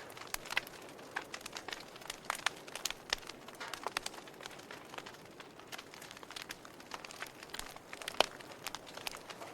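Wood fire burning in a fireplace, crackling with irregular pops and snaps over a soft hiss; one sharper snap near the end.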